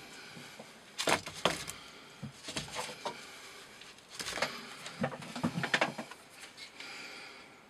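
Elmax knife blade cutting through rope in an edge-retention test, several short bursts of fibrous cutting noise a second or so apart. The edge is dulling, though it still cuts.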